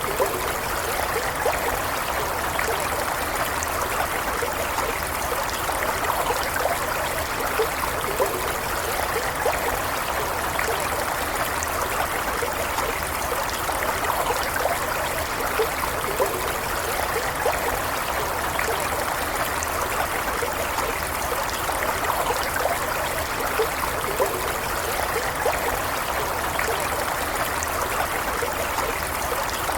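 Stream water running steadily, with many small bubbling trickles scattered through an even rush.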